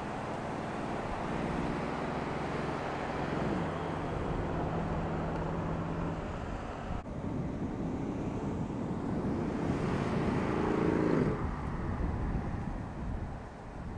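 Mercedes-AMG CLS63 Shooting Brake's twin-turbo V8 running at speed, over road and wind noise. The engine note drops a few seconds in and holds steady. After a sudden break about halfway, it climbs again to its loudest and cuts off near the end.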